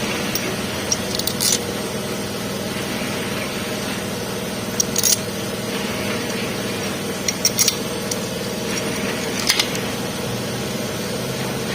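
Light metallic clinks of hand tools and engine parts being handled, a handful of separate clicks over a few seconds, over a steady background hum.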